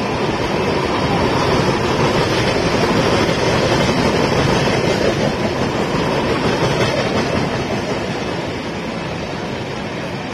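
Express passenger train running through a station at speed: a steady rush and rumble of the coaches' wheels on the rails. It is loudest a few seconds in and eases off after about seven seconds.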